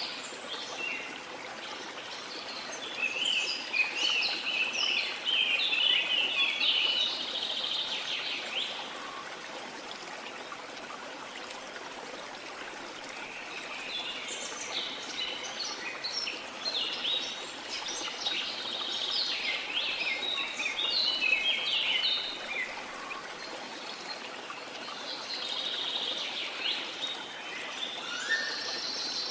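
Steady rush of a waterfall, with songbirds singing in three bouts of rapid, high chirping notes that come and go over it.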